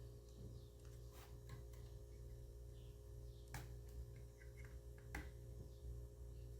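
Faint scattered clicks and taps of hands handling small laptop parts, screws and a screwdriver, with two sharper clicks, over a steady low hum.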